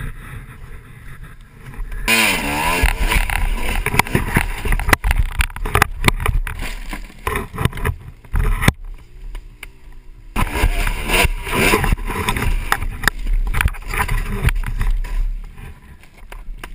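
Dirt bike engine revving hard in uneven bursts, its pitch rising and falling. It drops suddenly to a quieter stretch near the middle, then revs loudly again.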